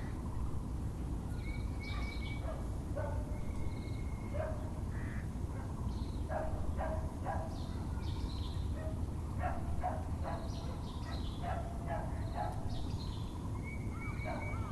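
Dogs barking repeatedly while birds call, over a steady low rumble of background noise.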